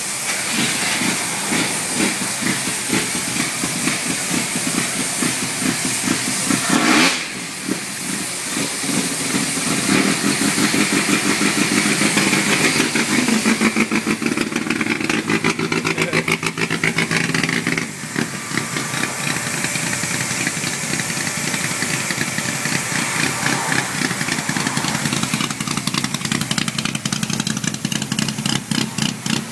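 Toyota KE70 Corolla race car's modified 4K four-cylinder engine running with a choppy, pulsing idle. It is revved in blips, a sharp one about seven seconds in, and revs rise and fall through a louder stretch in the middle.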